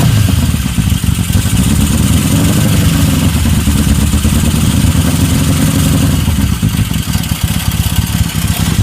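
1972 Honda CB750 K2's air-cooled inline-four engine running with a knock, a little raised for the first several seconds and easing back about six seconds in. The owner is unsure whether the knock is normal or a fault.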